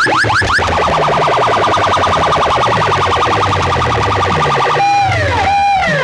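Electronic siren sound effects from a DJ track played through loudspeaker boxes, over a low bass beat. It opens with quick rising chirps, changes to a fast warbling tone, and near the end turns to slow rising-and-falling wails about a second each.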